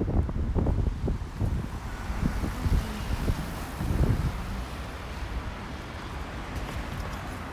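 Road traffic passing along a street, with wind buffeting the microphone.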